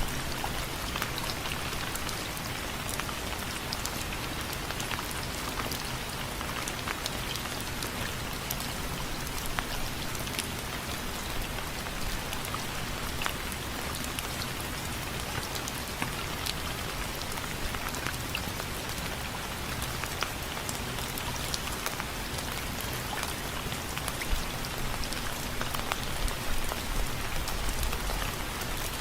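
Steady rain with many individual drops tapping sharply on window frames, an even hiss dotted with irregular ticks.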